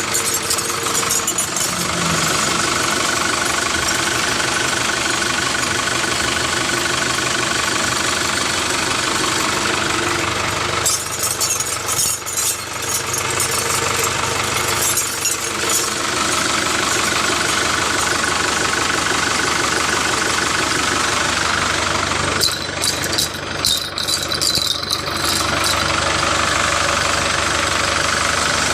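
An engine running steadily, with noisier rattling stretches about eleven seconds in and again about twenty-two seconds in.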